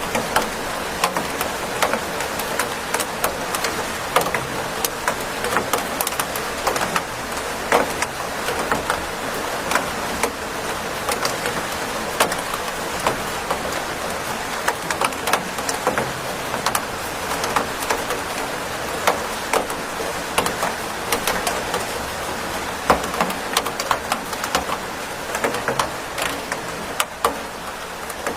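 Steady rain with many irregular sharp drips and taps of drops striking a hard surface.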